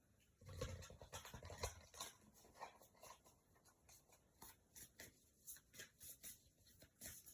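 A deck of Moonology oracle cards being shuffled by hand: a quick run of soft card flicks and rustles, loudest in the first couple of seconds, then lighter, scattered clicks.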